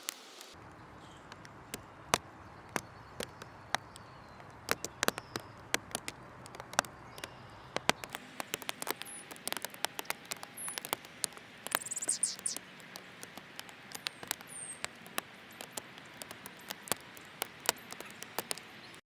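Backyard birds feeding: dense, irregular clicks and taps of pecking and seed handling, with a few short, high bird chirps about halfway through, over a steady outdoor hiss.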